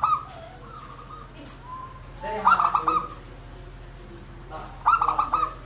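Zebra dove (perkutut) singing its rapid, staccato cooing phrases: the tail of one phrase right at the start, then two full phrases about two and a half seconds apart.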